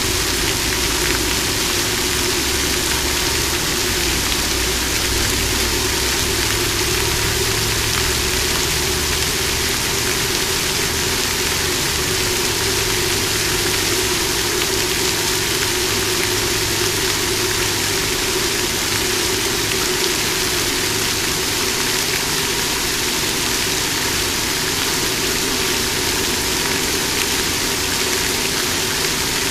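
Water fountain splashing steadily, an even rushing hiss with a low steady hum beneath.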